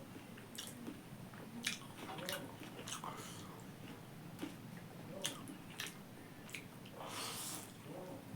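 Close-up chewing and biting of pork: wet mouth sounds with sharp smacks and clicks every second or so, and a short hiss near the end.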